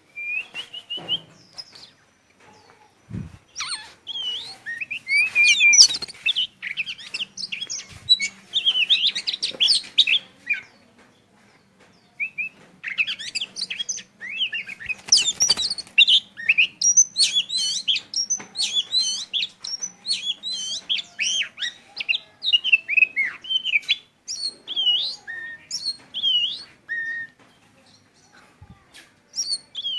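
Caged decoy songbird in full song: quick warbling, gliding phrases, a short pause about ten seconds in, then near-continuous singing. A single low thump comes about three seconds in.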